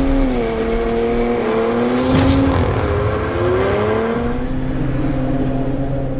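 Ram RHO pickup's twin-turbo inline-six engine under way, its note dropping just after the start, then climbing again as it accelerates and levelling off. A brief rush of noise comes about two seconds in.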